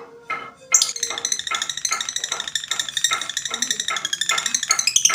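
Lovebird chattering in a long, rapid, unbroken trill of high notes, starting about a second in: the kind of song played to prompt lovebirds that have gone quiet to sing.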